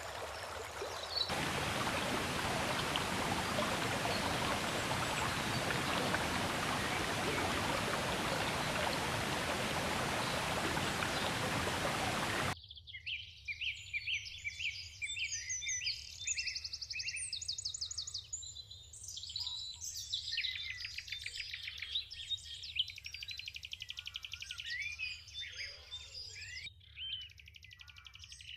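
Steady rush of a forest creek's flowing water that cuts off abruptly about twelve seconds in, giving way to songbirds singing: many rapid trills and chirps overlapping.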